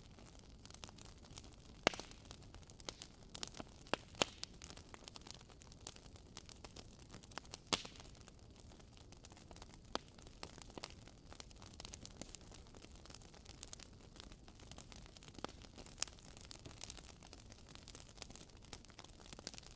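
Wood fire crackling in a fireplace: irregular sharp pops and snaps from the burning logs over a faint steady hiss, with a few louder pops about two, four and eight seconds in.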